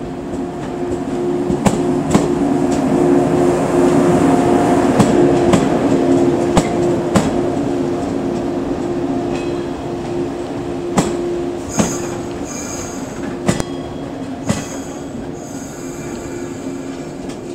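A Shinano Railway 115-series electric train rolling slowly past as it arrives at a station, with a steady hum. Its wheels click in pairs over rail joints, the pairs coming further apart as it slows. High-pitched squeals start about twelve seconds in.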